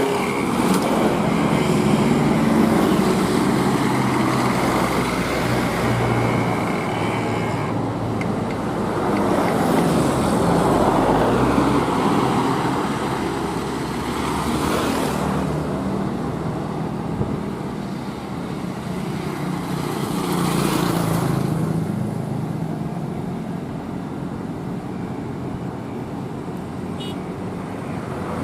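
Heavy diesel trucks labouring up a steep hill, engines running under load and swelling louder as vehicles pass at intervals.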